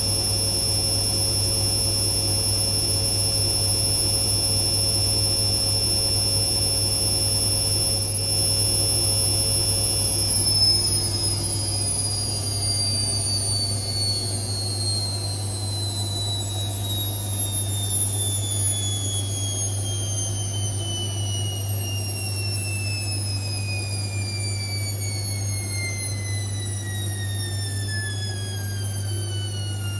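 Indesit IWC6165 washing machine spinning: a high steady motor whine over a low hum, which from about ten seconds in falls steadily in pitch as the drum coasts down and the spin winds down.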